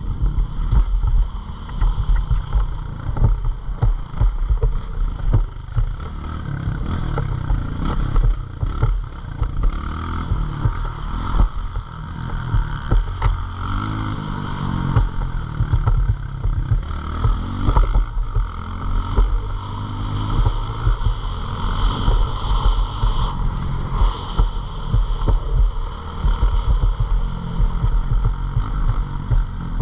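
Pit bike engine being ridden hard, its pitch rising and falling again and again as the rider revs through the gears, with heavy wind rumble on the microphone.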